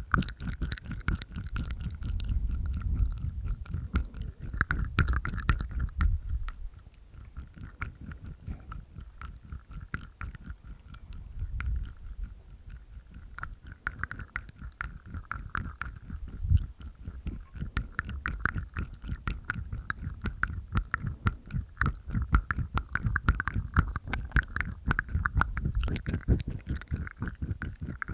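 Close-miked ASMR mouth sounds made inside the mouth with the tongue and teeth: a dense stream of quick wet clicks and smacks in uneven runs, with some lower, fuller passages.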